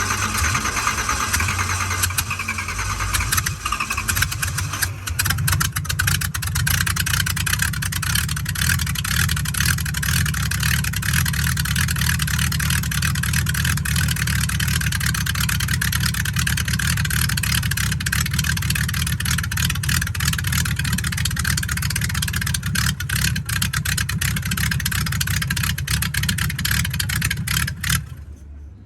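A car engine running close by, settling at a higher, steady speed about five seconds in, then cutting off abruptly near the end.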